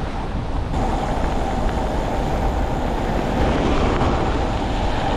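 Steady rushing wind noise on the microphone with tyre and road noise from a road bike riding along, growing slightly louder near the end.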